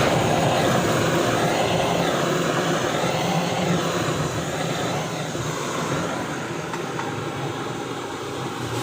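Steady mechanical noise that eases slightly in the second half.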